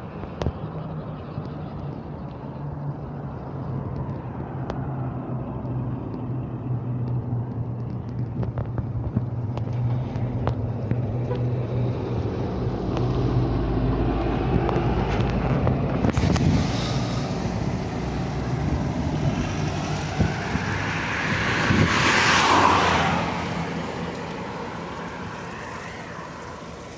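Steady engine hum that builds to a loud pass-by about 22 seconds in, then fades away.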